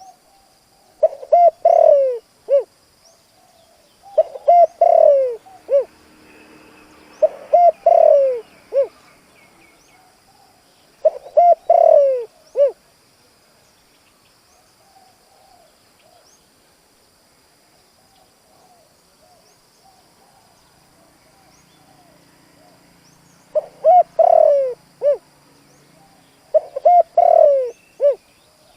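Spotted dove cooing: about six short repeated phrases of several low falling notes each, with a pause of about ten seconds in the middle.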